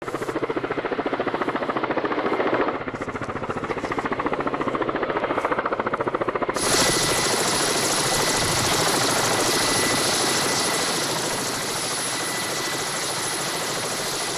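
Cargo helicopter running, its rotor giving a fast, even chopping pulse. The sound changes abruptly about three seconds in and again about seven seconds in, after which a steady high whine runs with the rotor noise.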